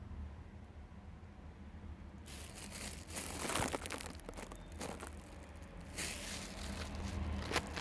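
Crinkling, crackling handling noise starts about two seconds in and goes on, over a faint low hum.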